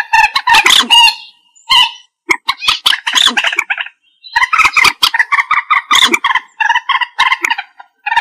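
Common moorhen calling: rapid strings of short, clucking notes in bouts, with brief pauses about a second and about four seconds in.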